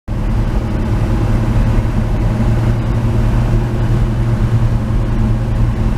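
1949 Chevy 3100 pickup's engine running steadily while the truck cruises at road speed, with a constant low drone and road noise.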